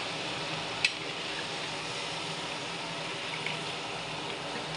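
Chicken and chopped tomatoes sizzling steadily in hot oil in an aluminium pan as they are stirred. A metal spatula knocks once against the pan about a second in.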